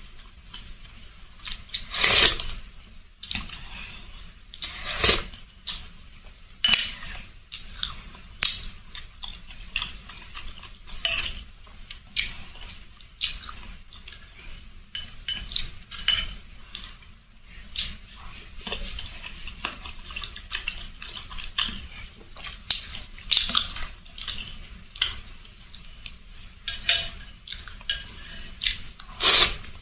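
Close-up eating of spicy rice-vermicelli noodle soup: utensils clink and scrape against the bowl, with wet slurping and mouth noises between. The clinks come irregularly, about one or two a second, and the sharpest are about two and five seconds in.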